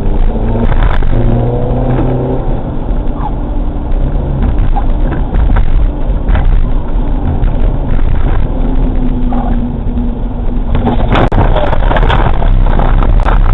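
Car running with road noise and a low engine hum, marked by several steady humming tones a second or two long. About eleven seconds in there is a cluster of sharp knocks and cracks.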